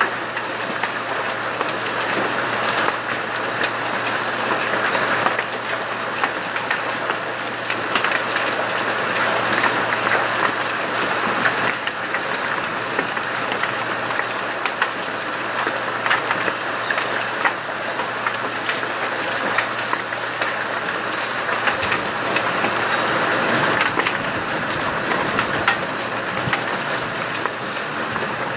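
Heavy storm rain pelting a vehicle: a dense, steady hiss with many scattered sharp ticks of impacts on the body and glass.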